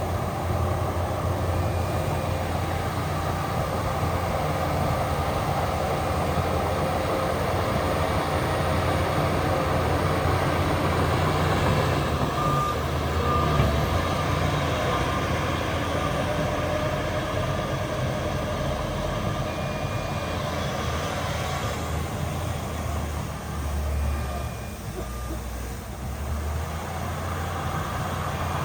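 Heavy diesel earthmoving machinery, a bulldozer and dump trucks, running under load with a steady low engine rumble.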